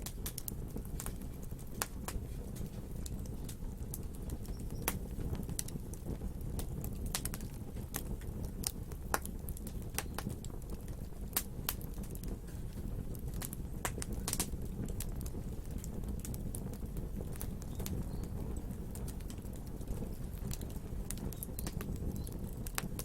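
Burning wood fire crackling and popping: many irregular sharp snaps over a steady low rumble of the flames.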